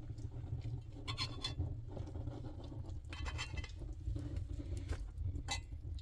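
Light clinks and taps of small hard objects in two short clusters, about a second and about three seconds in, and a single tap near the end, over a steady low rumble.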